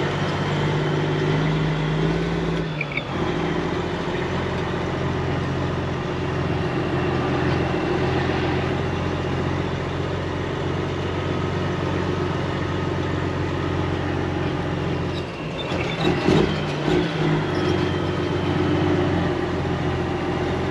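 Heavy truck's diesel engine idling steadily, with a brief shift in its note about three seconds in and a few clunks about sixteen seconds in.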